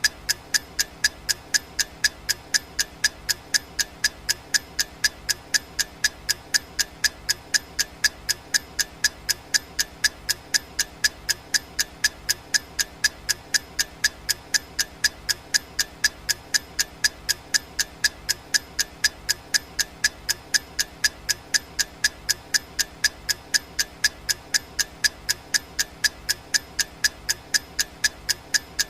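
Clock ticking sound effect: fast, even, sharp ticks repeating without change.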